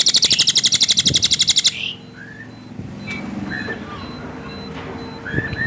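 Cililin bird singing: a loud, rapid, high trill of about a dozen notes a second that stops abruptly about two seconds in, followed by a few short, softer chirps.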